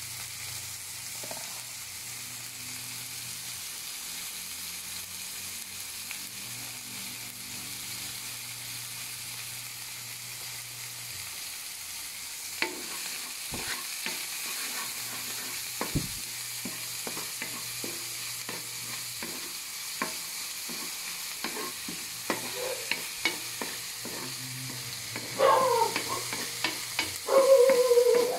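Chopped onion and garlic sizzling in oil in a wok, with a wooden spatula stirring and clicking against the metal pan from about halfway through. Near the end a dog barks a few times, louder than the frying.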